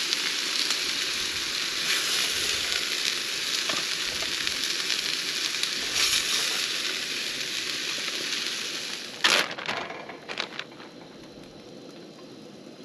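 Chicken breasts sizzling in oil in a cast iron skillet on a camp stove, a steady frying hiss. About nine seconds in come a few sharp knocks, and the sizzle then drops to a faint hiss as the last pieces come out of the pan.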